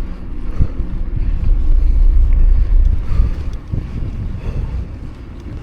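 Wind buffeting the microphone of a camera riding on a moving bicycle: a heavy, fluctuating low rumble.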